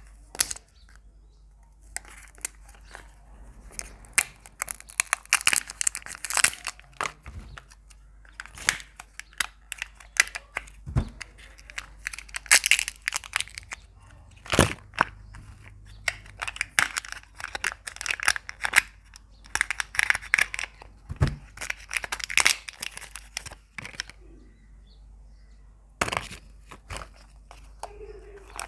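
Wrappers on surprise eggs being crinkled and torn open by hand in bursts of crackling with short pauses between, and a few single sharp knocks as the eggs are cracked open.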